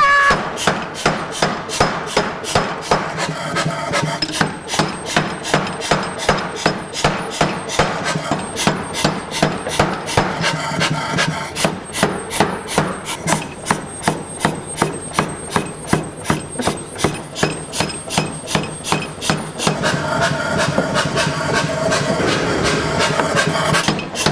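Repeated hammer blows on a hot Damascus steel billet at a steady rhythm of about three a second, over a steady hum. The billet has cracked, and it is being hammered to try to forge-weld it back together.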